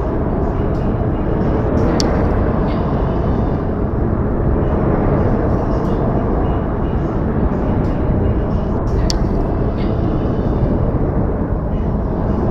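Outdoor snowfall ambience: a steady, dull, rumbling hiss with no distinct events, and two brief sharp ticks, one about two seconds in and another near nine seconds.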